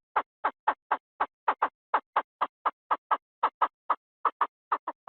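Recorded Chinese francolin call used as a decoy: a rapid, even series of short, clipped notes, about four to five a second, with dead silence between them.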